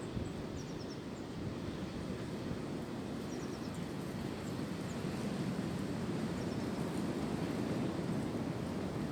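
Wind blowing through tree branches: a steady rushing that swells a little past midway. A few faint, short bird chirps sound over it.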